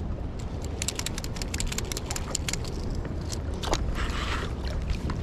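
Strong wind buffeting the microphone as a steady low rumble, with many sharp clicks and ticks through the first three seconds and a short swish just before four seconds in.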